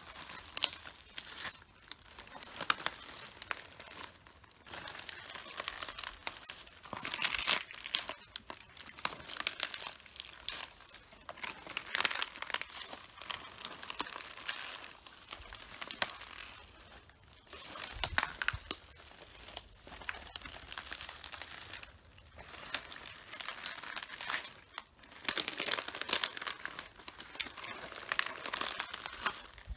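Red cabbage leaves crunching and crackling underfoot as they are walked on and crushed, in repeated bursts of dense crackle with short pauses between.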